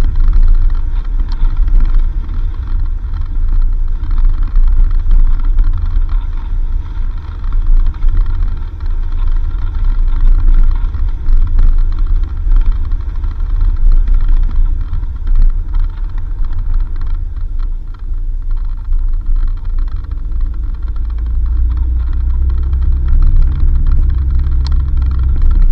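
Four-wheel-drive vehicle driving on a dirt road: a steady low rumble of engine and tyres that swells a little near the end.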